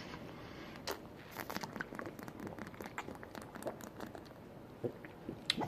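Faint, scattered small clicks and knocks with light rustling, like parts being handled.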